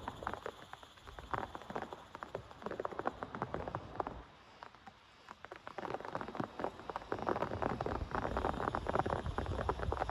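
Heavy rain falling as a dense, irregular patter of drops, easing briefly about four seconds in and then picking up again more densely.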